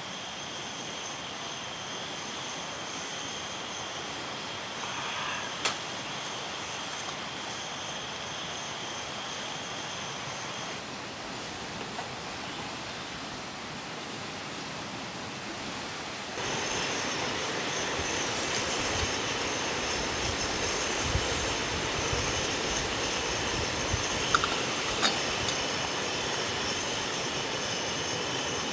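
Wind noise: an even hiss with a steady high-pitched whine through it. About sixteen seconds in it grows louder, with low rumbling gusts buffeting the microphone. A few small clicks come through it.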